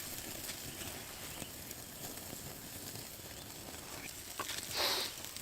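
Wood campfire crackling steadily, with scattered small pops, and a brief louder hiss just before the end.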